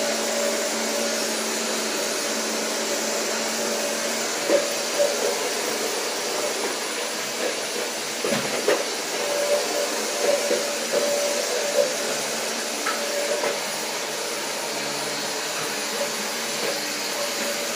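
Vacuum cleaner running steadily with a constant whirring hum, with a few knocks and clatters in the middle as it is pushed around.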